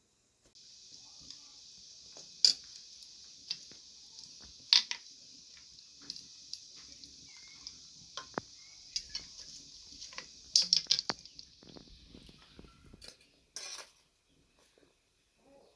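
Cutlery and dishes clinking in sharp, irregular knocks, a few of them loud, over a steady high hiss that fades out about 13 seconds in.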